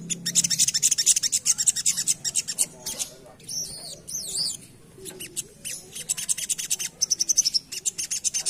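Crimson sunbird singing a fast, continuous chatter of high chips, broken about three and a half seconds in by a short warbling phrase, then running on in rapid chips.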